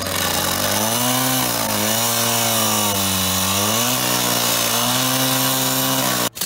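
A motorised power tool running under load as it cuts. Its pitch sags and recovers several times as the cut bites, over a loud hiss, then it stops abruptly near the end.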